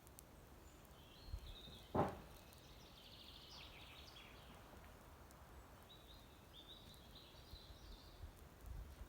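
A songbird sings two short trilled phrases, a few seconds apart, over faint outdoor background noise. There is a single dull thump about two seconds in.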